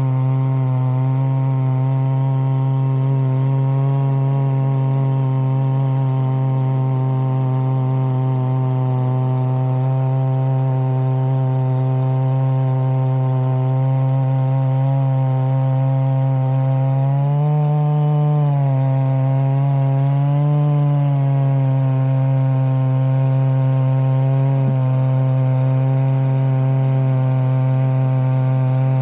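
Two-stroke chainsaw running steadily at high speed while milling a log into lumber. Its pitch rises briefly twice in the middle, then settles back to the same steady note.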